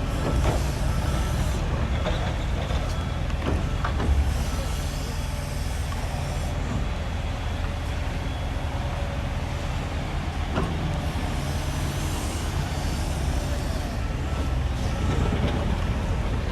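Excavator's diesel engine running steadily, with a few short knocks.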